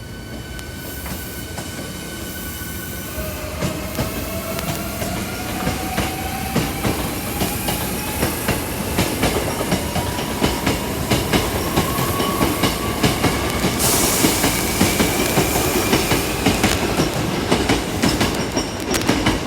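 Electric commuter train pulling away: its motor whine rises steadily in pitch as it speeds up, with wheels clacking over rail joints. About two thirds of the way through, a sudden louder hiss joins in and the clacking grows heavier.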